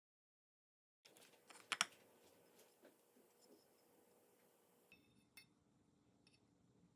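Faint clicks and light taps starting about a second in, the sharpest click a little under two seconds in.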